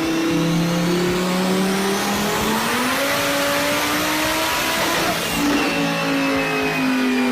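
Car engine under full throttle on a dyno, its pitch climbing steadily for about five seconds as it revs up, then dropping and easing slowly down.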